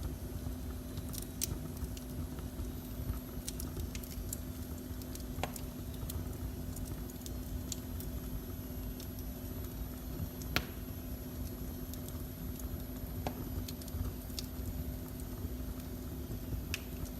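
Fire in a fireplace crackling, with sparse sharp snaps and pops, the loudest a little past ten seconds in, over a steady low rumble and a faint hum.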